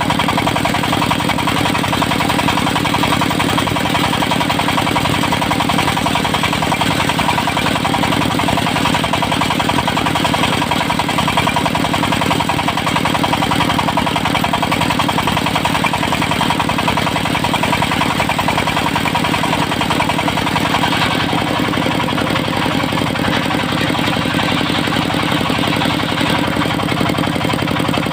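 Engine of a portable circular sawmill running steadily with an even firing beat, driving the spinning saw blade.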